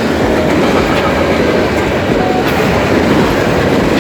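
Train rolling past close by: steady, loud noise of wheels on the rails, with wind on the microphone.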